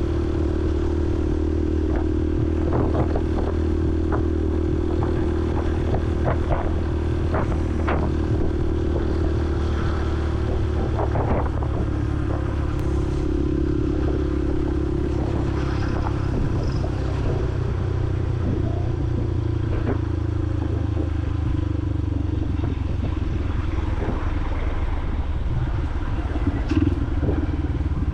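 Honda CRF150L's single-cylinder four-stroke engine running steadily while riding, heard from a helmet-mounted camera. Short clicks and clatter are scattered through it.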